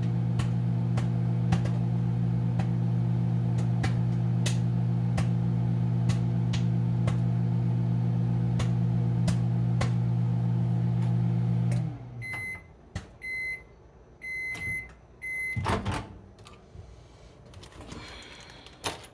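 Commercial Chef countertop microwave running with a steady hum while a bag of popcorn pops inside, the pops scattered and irregular. About twelve seconds in, the microwave shuts off and its hum winds down, then it beeps four times to signal the cooking is done, followed by a clunk and some faint rustling.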